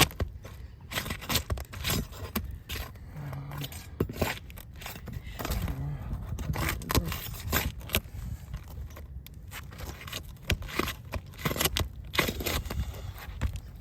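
Asphalt roof shingles being pried up and pulled apart: a run of irregular scrapes, crackles and short tears as the old, stuck-together shingle layers separate and the bottom shingle rips.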